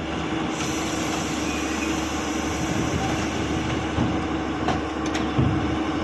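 Heavy machine's diesel engine running steadily, with a few metal knocks a little past the middle.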